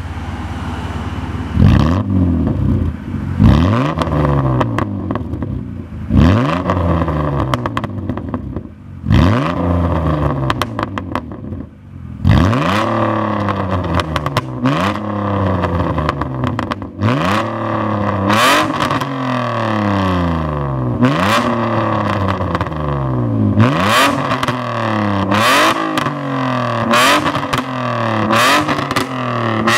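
BMW E36 328i's straight-six engine revved over and over through a replica Active Autowerke exhaust, each blip rising and falling back, coming faster in the second half. Many blips end in sharp pops and crackles on the overrun, from bad fuelling caused by a faulty idle control valve.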